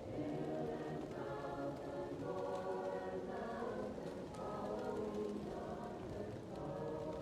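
A choir singing slow, sustained phrases, muffled as if heard through a wall from another room, over the faint crackle of a wood fire.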